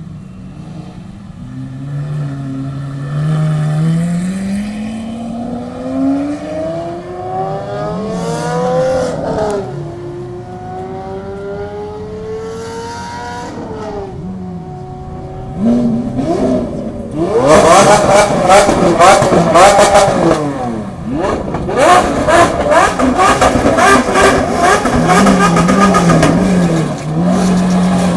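Supercar engines being free-revved while stationary. A rev climbs slowly over several seconds and drops back, and the engine holds a raised idle. From about 17 s in come loud, rapid throttle blips mixed with crackles and pops from the exhaust.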